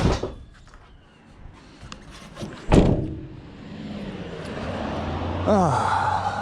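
Two heavy thuds about three seconds apart, then a vehicle engine running up, rising in pitch near the end.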